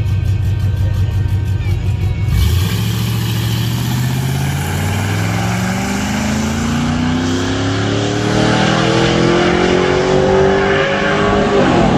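Street truck engine under hard acceleration. A steady low running sound gives way about two seconds in to a sudden rush of noise, and the engine pitch then climbs steadily for the rest of the run before dropping off sharply at the very end.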